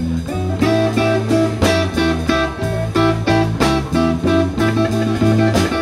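Live blues band playing an instrumental passage between sung lines: electric guitar with bass and drums keeping a steady beat.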